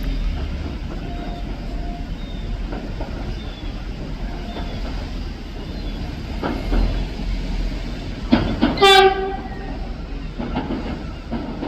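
Train running over the rails with a steady rumble and occasional clicks of wheels over rail joints. About nine seconds in, a short, loud horn blast is heard.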